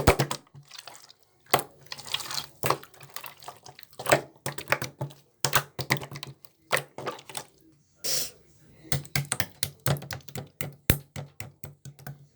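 Many sharp clicks and knocks, with a few short rushes of running water, over a faint steady low hum.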